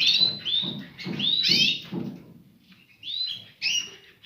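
Small cage birds chirping: a series of short, arching call notes, about two a second, with a brief pause about two and a half seconds in before a few more calls near the end.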